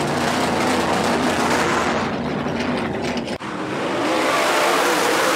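Alcohol-burning race cars running hard on a dirt track: a loud, continuous engine drone, with the pitch rising after a break about three and a half seconds in.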